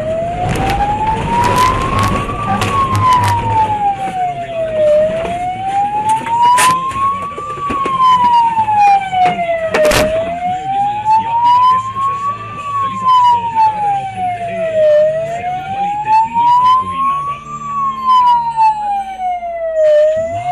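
Police car siren on a slow wail, its pitch rising and falling about every five seconds, over the engine and road noise of the pursuing car, with a few sharp clicks.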